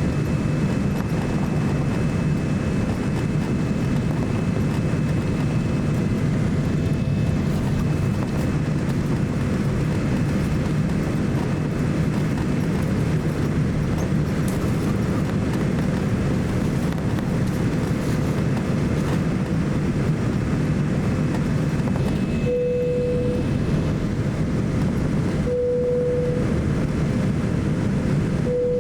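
Steady cabin noise inside a Boeing 787-9 airliner in flight: a deep, even rush of airflow and engine drone. Near the end, three short single beeps sound about three seconds apart.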